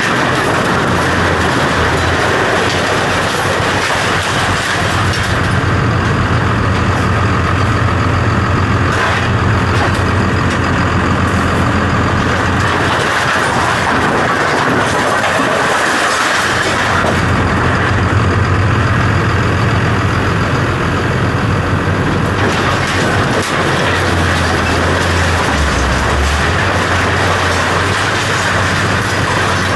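Heavy vehicle engine running steadily under load with loud mechanical noise; its low hum drops in pitch for a moment near the end.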